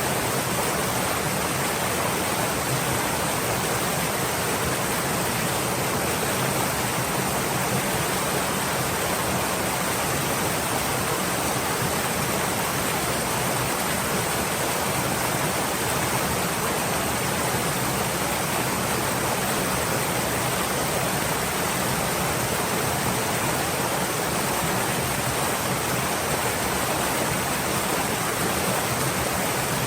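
Stream water flowing steadily, a constant even rushing with no breaks or changes.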